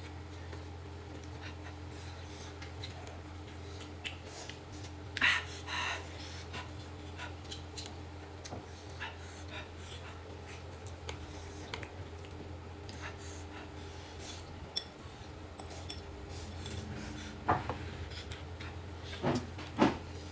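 Eating utensils clinking and tapping against bowls and plates during a meal: scattered light clicks, with a louder clatter about five seconds in and a few sharper clinks near the end. A steady low hum runs underneath.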